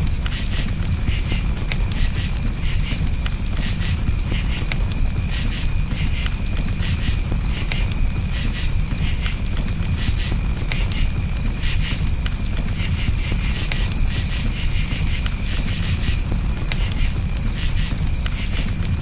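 Crickets chirping in rhythmic pulsed trills over a crackling wood campfire, with scattered small pops and a steady low rumble underneath.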